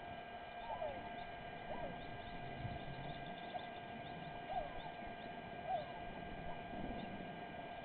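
Short chirping animal calls repeating about once a second over a steady electrical hum, with a faint low rumble twice.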